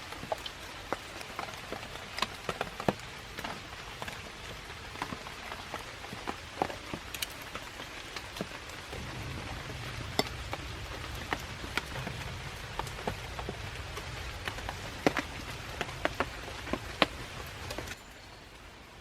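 Small wood campfire crackling: a steady hiss with frequent irregular sharp pops.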